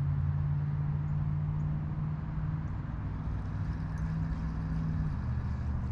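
Steady low engine hum, dropping slightly in pitch about five seconds in, over the even rush of flowing creek water.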